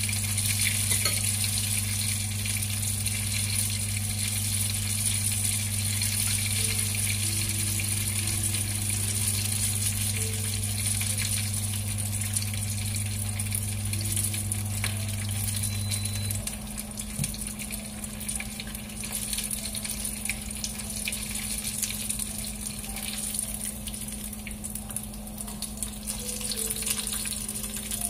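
Dumplings pan-frying in shallow oil in a nonstick frying pan, with a steady sizzle. A low steady hum runs underneath, and part of it stops a little past halfway.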